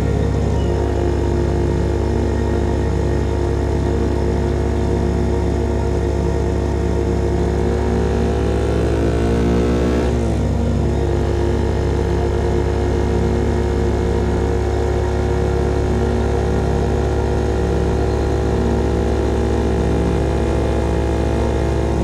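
CFMOTO Papio SS's single-cylinder engine running through a KO Lightning slip-on exhaust at steady riding revs. Around seven seconds in, its pitch climbs as the bike accelerates, then drops sharply about ten seconds in at a gear change, and the engine settles back to a steady note.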